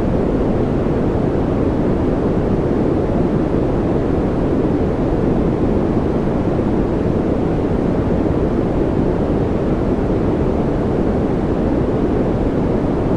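Steady noise-generator sound of the kind sold as white noise, even and unchanging, with most of its weight in the low and middle pitches, so it sounds deep and rushing rather than hissy.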